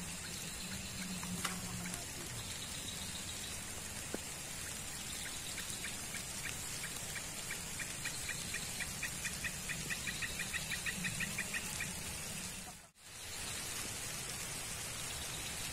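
Steady rain falling, an even hiss. Through the middle a run of short, high chirps repeats faster and faster, and near the end the sound drops out for a moment.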